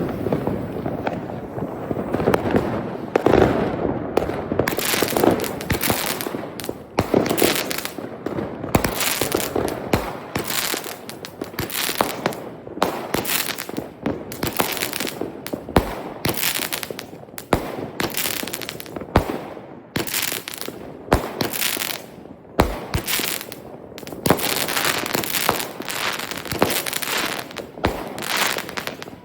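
Consumer fireworks going off: a quick series of sharp bangs, one or two a second, over a dense crackle that is thickest in the first several seconds.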